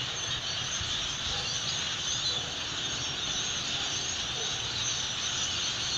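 A steady high-pitched outdoor chorus of crickets and other insects, mixed with the chatter of a large flock of birds.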